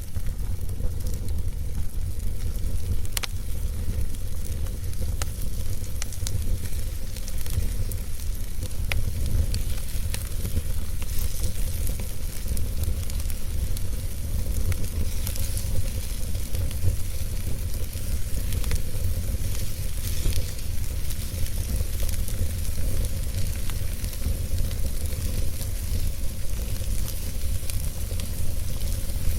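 Wood fire burning in a fireplace: irregular crackles and small pops over a constant hiss and a low steady rumble of the flames.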